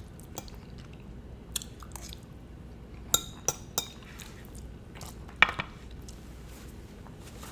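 Close-miked eating sounds: a person chewing, with scattered sharp clicks and taps, the loudest a little past five seconds in.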